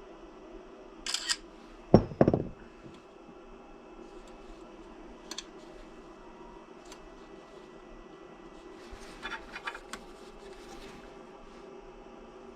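A few scattered sharp clicks and knocks over a low steady hum, the loudest a pair of knocks about two seconds in and a quick run of clicks near the end.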